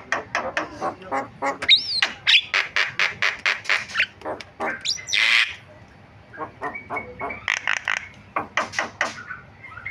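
Javan myna singing a varied song: a fast run of harsh chattering notes with a few rising whistled glides and one long rasping squawk about five seconds in. The song pauses briefly near six seconds, then the chatter resumes.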